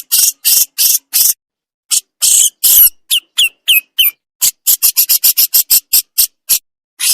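Jenggot bird giving its harsh rasping 'besetan' call: a string of short scratchy notes, a short pause, a few brief falling whistles, then a quicker run of short scratchy notes at about four a second.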